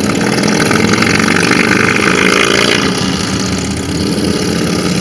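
Motorcycles riding past, their engine note sliding in pitch and loudest about one to three seconds in as they go by.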